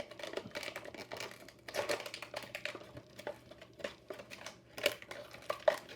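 Diecast toy car packaging being handled and opened by hand: scattered crinkles of plastic blister and card, with small clicks and taps.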